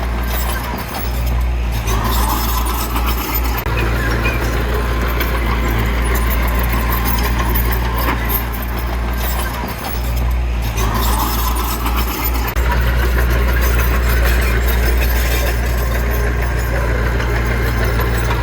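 Heavy diesel earthmoving machinery running steadily with a strong low drone. A higher, rougher note swells over it twice, about two seconds in and again around ten seconds in.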